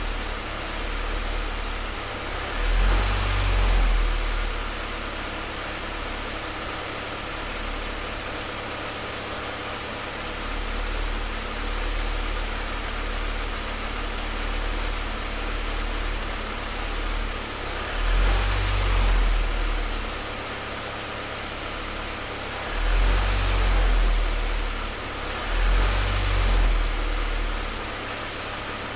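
Five-cylinder car engine idling roughly: a steady low hum that swells noticeably louder four times, at about 3 s, 18 s, 23 s and 26 s in, a sign of an uneven idle.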